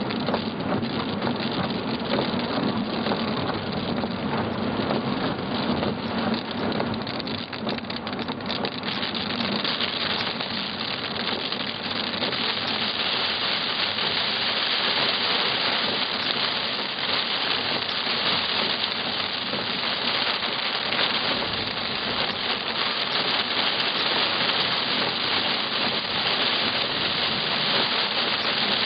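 Heavy rain pelting a car's windscreen and roof, heard from inside the cabin as a dense, steady hiss. It grows heavier about ten seconds in.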